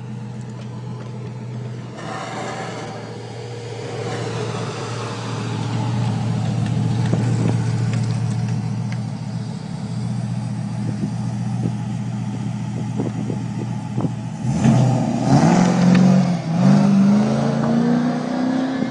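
A car engine running steadily with a low hum, then revving up about fifteen seconds in, its pitch climbing in steps as it accelerates.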